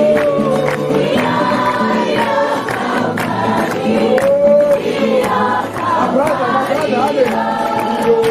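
Group of voices singing a worship song together, with a steady percussive beat underneath.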